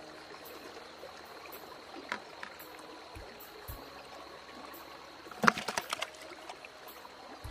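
Steady flowing water from a stream in spate, with a quick run of sharp clicks and knocks about five and a half seconds in.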